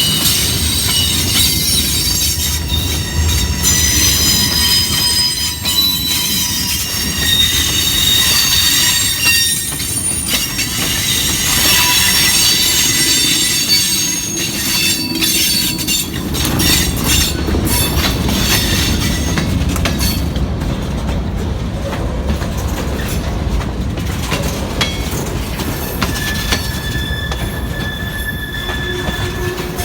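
A train rolling past close by: a steady rumble of cars on the rails, with steel wheels squealing in high shifting whines and occasional clicks over rail joints.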